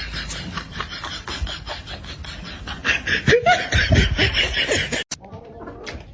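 People laughing, loudest around the middle, with an abrupt cut to a different clip about five seconds in.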